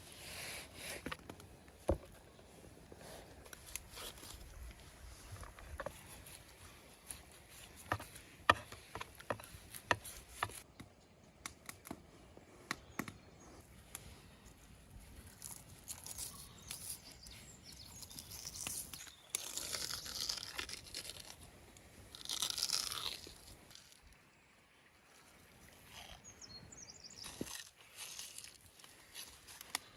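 Food preparation handling sounds: scattered sharp knocks and clicks, with longer spells of scraping and rustling about twenty seconds in.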